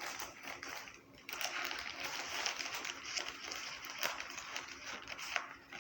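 Takeout sandwich packaging being opened by hand: paper rustling and crinkling in a dense crackle with small clicks, pausing briefly about a second in.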